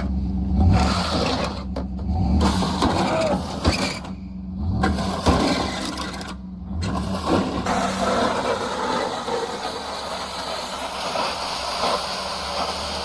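Vehicle driving: a steady engine hum under dense road and rolling noise, cutting out briefly a few times in the first seven seconds.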